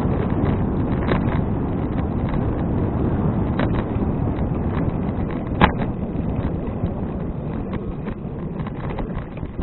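Steady rush of wind buffeting an action camera's microphone on a moving bicycle, with a few light clicks and one sharper click a little past halfway.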